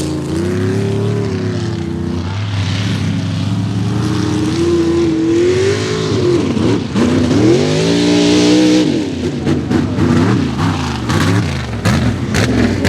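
Mega mud truck engine at full throttle through a mud pit run, its pitch rising and falling as the throttle is worked. The engine note dips about six and a half seconds in, climbs hard to a peak about a second later, then drops away.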